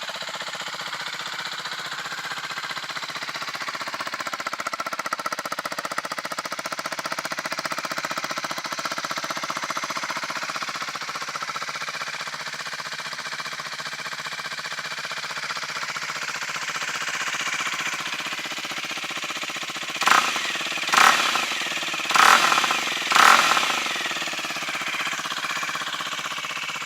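Rieju Century 125 engine running at idle through a full stainless Black Widow exhaust line built for the Aprilia RS4 125, a steady fast putter, then revved in four short blips of the throttle near the end.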